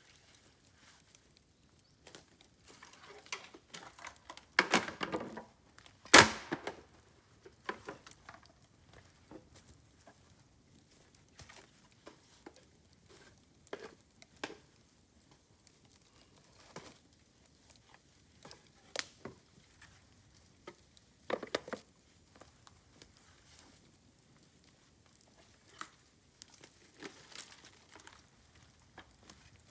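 Bamboo fire crackling with scattered small snaps, a cluster of crackles around five seconds in and one sharp loud pop about six seconds in.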